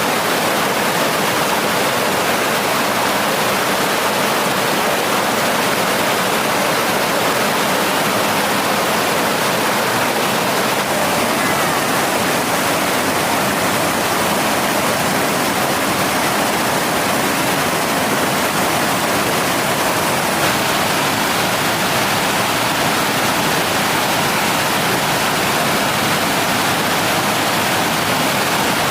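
Mountain stream water rushing steadily, an even, unbroken hiss.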